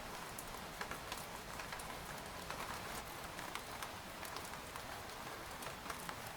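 Steady rain falling on a tent, an even hiss with many separate drops tapping sharply on the fabric.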